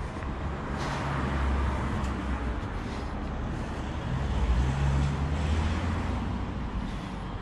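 Motor vehicle engine running close by: a low hum that grows louder about a second in and again around the middle.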